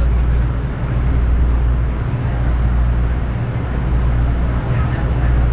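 Steady low rumble and hum of a passenger train car, heard from inside the car.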